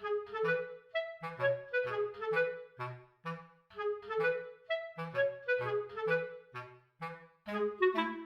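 Background music: a bouncy tune of short, separate melody notes over a bass line.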